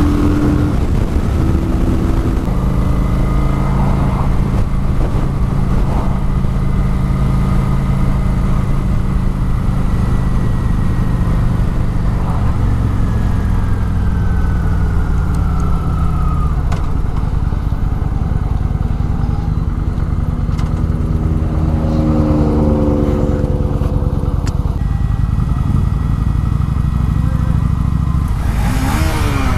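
Motorcycle engine running steadily at road speed, its pitch shifting with the throttle and rising briefly about three-quarters of the way through.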